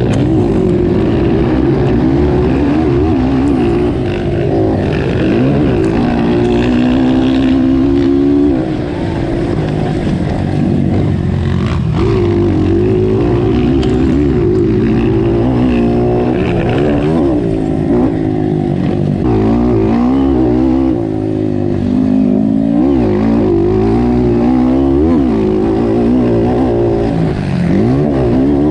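Motocross dirt bike engines racing, revving up and down so the pitch rises and falls every second or two, loud and continuous, at times with more than one bike heard at once.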